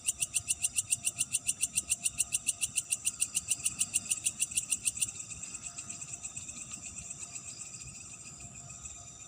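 Night insects: a loud, rapidly pulsed high call of about eight pulses a second stops abruptly about five seconds in, leaving a fainter steady chorus of crickets that slowly fades.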